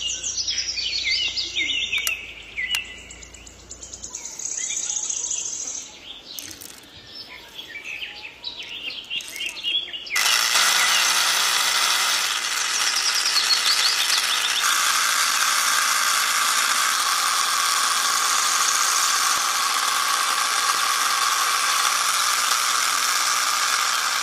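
Birds chirping in quick rapid calls. About ten seconds in, a dense, steady high hiss comes in suddenly and holds, with faint chirps still over it.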